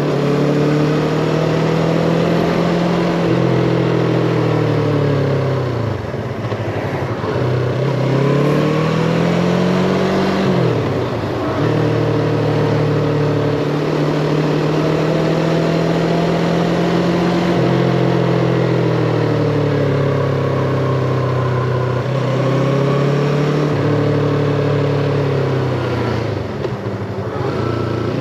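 Yamaha MT-25's 250 cc parallel-twin engine running under a rider's throttle, its pitch rising and falling with acceleration and gear changes. The engine note drops away sharply about a third of the way in, again a little later, and near the end as the throttle is rolled off, then climbs again.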